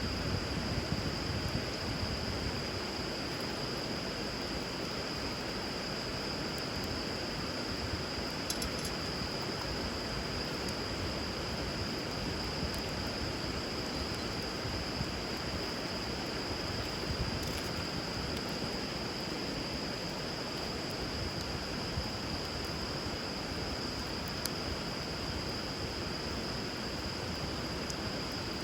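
Steady rush of flowing river water under a constant high insect trill, with a few sparse, sharp crackles from a wood fire.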